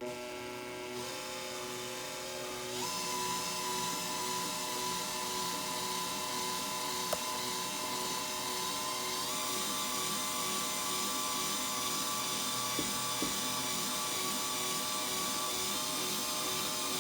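A small electric motor running at high speed with a steady whine, starting abruptly; its pitch steps up twice, about three seconds in and again about nine seconds in.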